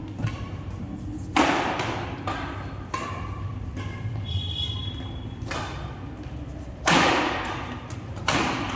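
Badminton rackets striking a shuttlecock during a rally: several sharp hits at uneven intervals, each ringing in a large hall, the loudest about seven seconds in. A brief high squeak comes about halfway through.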